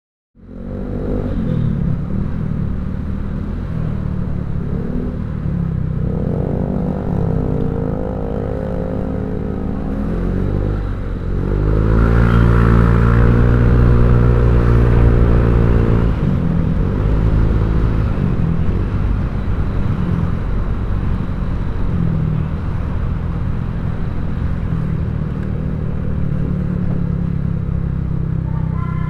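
Honda Vario 150 scooter's single-cylinder four-stroke engine running through an aftermarket ZRC 'copy CMS' exhaust. It starts up suddenly and the revs rise and fall several times, loudest in the middle.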